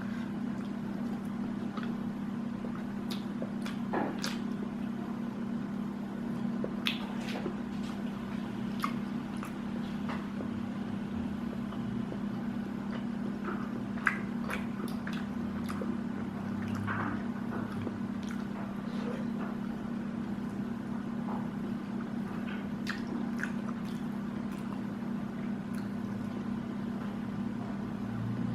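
Close-miked chewing and eating of biryani and tandoori chicken: wet, squishy bites with scattered small clicks, over a steady low hum.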